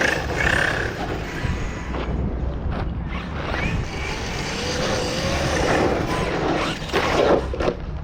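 Hyper MT2 radio-controlled monster truck running, its motor pitch wavering up and down over a steady rumbling noise.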